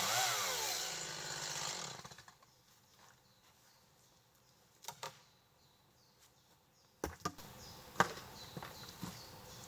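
Chainsaw running with its pitch rising and falling, then stopping about two seconds in. After a quiet stretch come a couple of knocks, then from about seven seconds a string of sharp knocks and clunks, the loudest near eight seconds.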